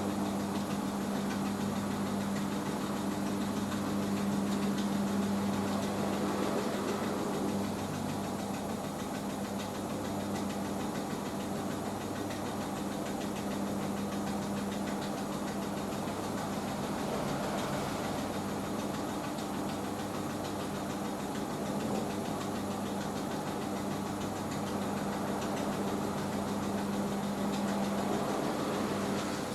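Hoover H-Wash 500 front-loading washing machine running its rinse spin, a steady motor hum over an even whooshing noise.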